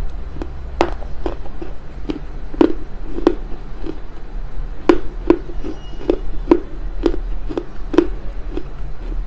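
Smoked Chinese loess clay being chewed close to a lapel microphone: a string of sharp, irregular crunches, about two a second, over a steady low hum.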